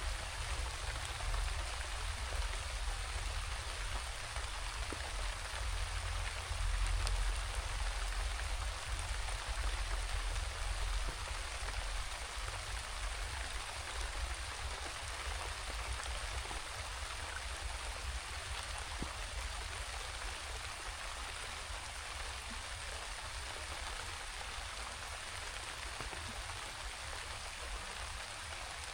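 Steady rain falling on foliage and ground, an even hiss without let-up. Underneath is a low rumble that swells between about six and eleven seconds in.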